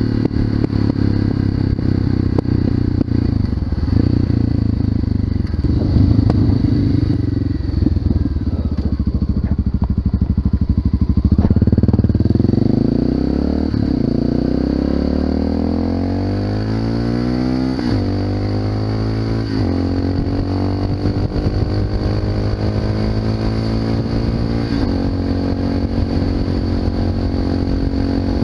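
Honda FMX 650 supermoto's single-cylinder engine through an Arrow exhaust, running under way. The note holds fairly steady at first, then rises as the bike accelerates about halfway through, breaks at a gear change, climbs again and settles.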